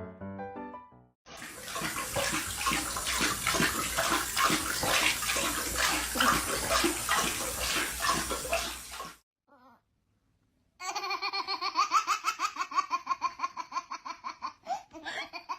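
Water splashing and sloshing, as in a bathtub being filled or washed in, for about eight seconds. After a short silence comes a rapid run of short, pitched, voice-like pulses.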